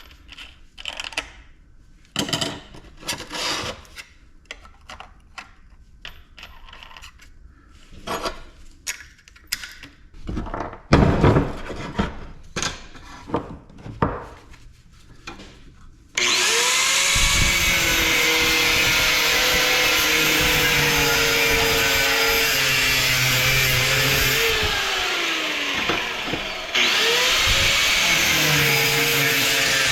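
Clinks and clatter of metal parts and tools being handled, then about 16 seconds in a power saw starts suddenly and runs steadily, cutting into the ice maker's metal compressor shell. The cut has a wavering metallic squeal in it and eases briefly a few seconds before the end.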